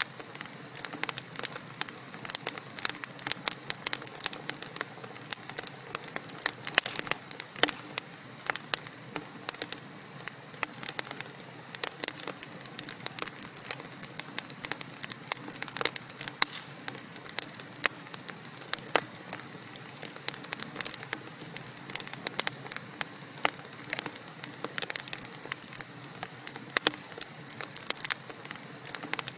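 Wood fire burning in a fireplace: burning logs crackling and popping in a dense, irregular stream of sharp snaps over a steady hiss.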